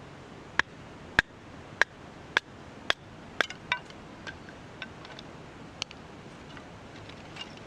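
A series of sharp knocks with a slight ring: about six evenly spaced strikes, roughly one every 0.6 seconds, then fainter, scattered taps.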